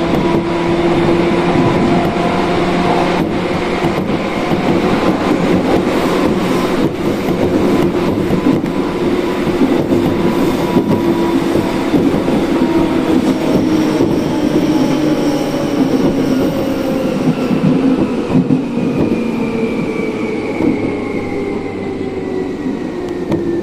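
Seibu Ikebukuro Line commuter train heard from inside the carriage: steady rumble of wheels on rail with a motor whine. Through the second half the whine falls steadily in pitch as the train brakes to stop at a station.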